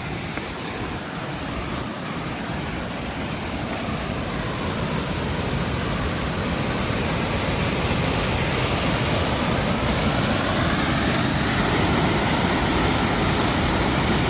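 High Force waterfall rushing: a steady, even roar of falling water that grows steadily louder as it is approached.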